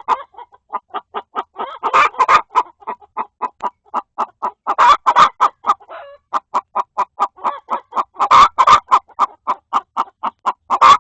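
Hens in a coop clucking in a fast, even run of short clucks, about five a second, with louder, harsher clusters about every three seconds. One hen is fussing at another that is on the nest trying to lay.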